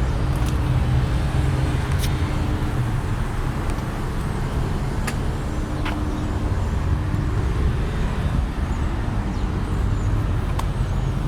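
Steady low rumble of motor vehicles, with a faint hum coming and going and a few light clicks.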